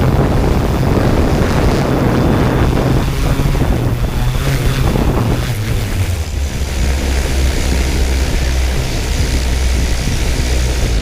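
Multirotor drone's propellers running close to the microphone, with wind buffeting it. The low hum drops in pitch about halfway through, and the sound falls away at the very end as the motors stop.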